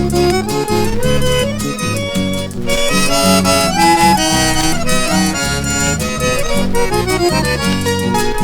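Instrumental break between sung verses of a Brazilian sertanejo song: an accordion plays the melody over a steady accompaniment.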